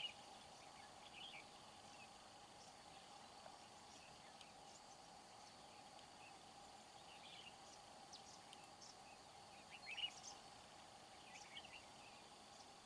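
Faint, short bird chirps now and then, a few seconds apart, the loudest just after ten seconds in: red-whiskered bulbuls calling. Behind them is a steady hiss and a faint steady tone.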